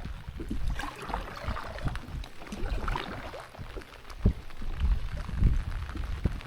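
Kayak paddle strokes dipping and splashing in lake water, irregular, over a low rumble.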